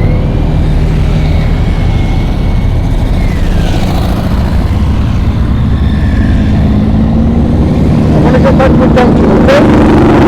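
Motorcycle engine running on the move, its pitch rising about six seconds in as it speeds up. A run of short clicks comes near the end.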